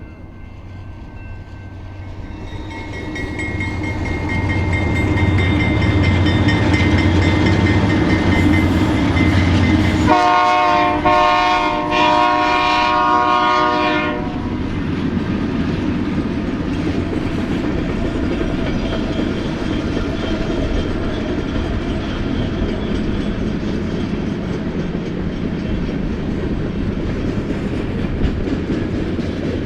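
Diesel locomotives of a BNSF freight train approaching, their engine rumble growing louder, then a locomotive horn blast about ten seconds in, held for about four seconds. After it, the freight cars roll past with steady wheel-on-rail noise and some clickety-clack.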